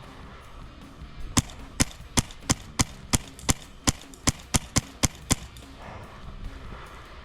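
Airsoft gun firing a string of about a dozen sharp single shots, roughly three a second, starting about a second and a half in and stopping just past five seconds. Background music plays underneath.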